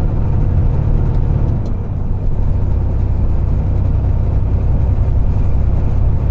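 Semi truck's diesel engine and road noise while driving at highway speed, a steady low rumble heard from the cab. About two seconds in the sound dips briefly, then carries on with the engine note sitting lower.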